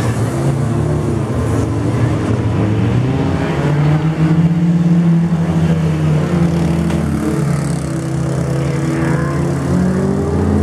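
Engines of several demolition derby cars revving and running as they drive around a dirt arena. The engine pitch rises about four seconds in and then holds.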